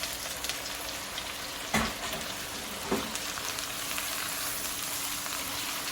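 Food sizzling and frying in a hot pan, a steady hiss broken by two sharp clicks about two and three seconds in.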